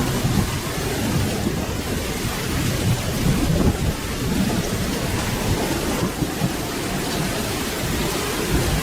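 Steady rainfall with a low, rolling rumble of thunder underneath, with no sharp crack.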